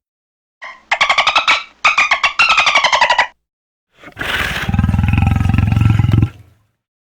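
Two separate animal calls. About a second in comes a fast-pulsing, slightly falling call in two bursts. Then a deep, low call lasts about two and a half seconds.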